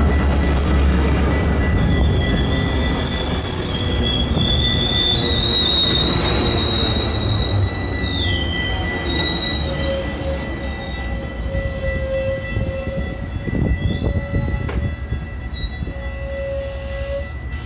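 Metrolink bi-level commuter train rolling along the platform with a low rumble and high squealing from its wheels and brakes. The squeal is in several tones that glide down about eight seconds in, and the sound grows quieter as the train slows.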